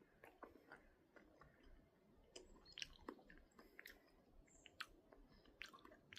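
Faint, irregular small clicks and crackles.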